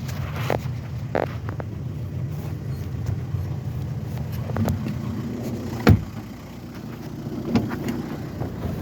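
Skoda Octavia engine running steadily at idle. A sharp thump about six seconds in is followed by a quieter, lower hum.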